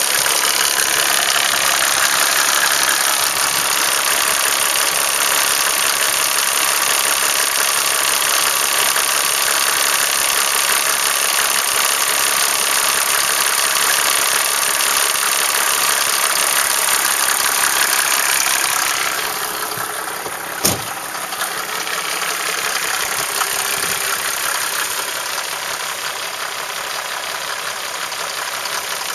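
Mercedes-Benz 300D's OM603 turbodiesel straight-six idling cold with a steady diesel clatter. It gets a little quieter about two-thirds of the way through, just before a single sharp knock.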